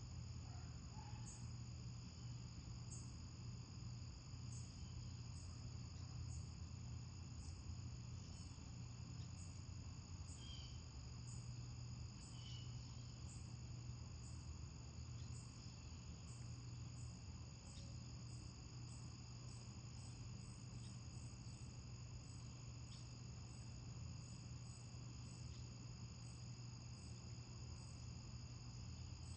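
Crickets chirping steadily in a faint nature-sound backdrop, a continuous high trill with a chirp repeating about once a second. A faint steady low hum lies underneath.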